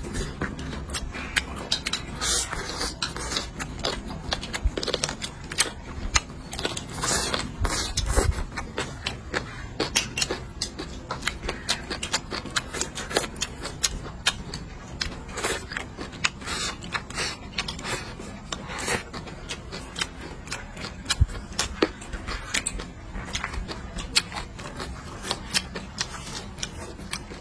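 Close-up eating sounds: dense, irregular crunching, clicking and smacking of chewing and biting food.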